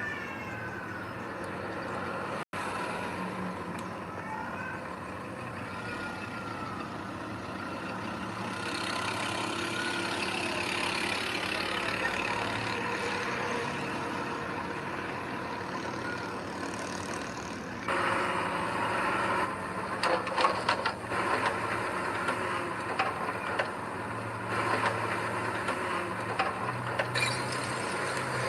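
Heavy diesel earthmoving machinery running steadily. About 18 seconds in, louder irregular clanking and rattling sets in.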